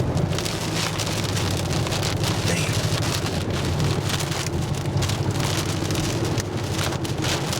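Rain driven by the tornado's rear-flank downdraft pelting a moving vehicle in a dense, crackling patter, over the steady low rumble of the vehicle driving.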